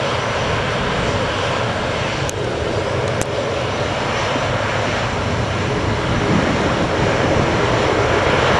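Aircraft engines running steadily on an airfield, a continuous loud rushing drone that grows slightly louder near the end.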